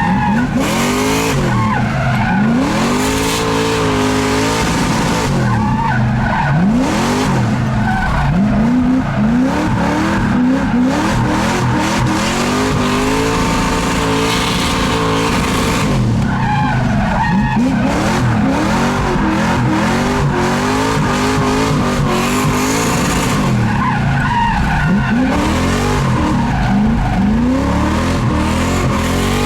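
Drift car engine revving hard, its pitch climbing and dropping again and again as it is driven through a run, with tyres skidding and squealing.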